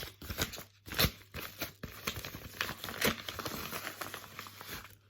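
Packaging crinkling and rustling as it is handled and opened, a dense run of irregular crackles that stops shortly before the end.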